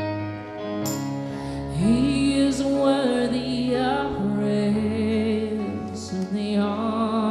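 Slow worship music: sustained held chords, joined about two seconds in by a singing voice that slides up into long held notes with vibrato.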